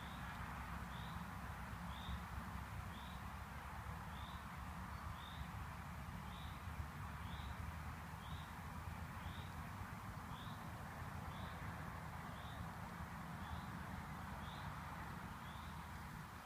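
A bird repeating a short, high chirp about once a second, over a steady rumble of wind on the microphone.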